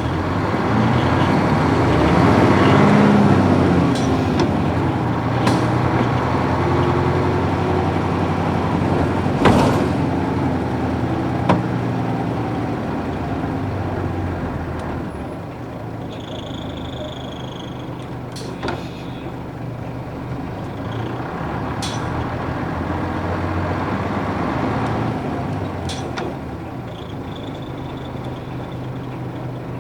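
Nissan Diesel UA440 city bus running, its PF6 six-cylinder diesel engine pulling hardest about three seconds in and then easing off. Several sharp clicks and knocks come through, the loudest about ten seconds in.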